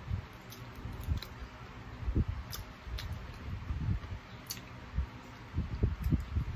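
Chewing and gnawing on chicken feet, irregular soft mouth sounds, with a few sharp clicks near the middle.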